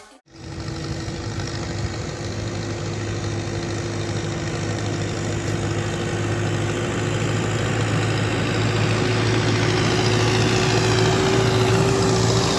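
Case tractor's diesel engine running steadily, with a steady whine that edges up in pitch near the end, slowly growing louder.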